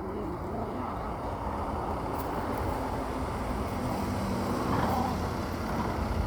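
Heavy truck engine running on the road, growing steadily louder as it approaches.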